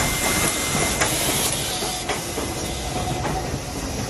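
Steam train running on the track: a steady rumble and hiss with a few sharp clanks, about a second in and again around two seconds in.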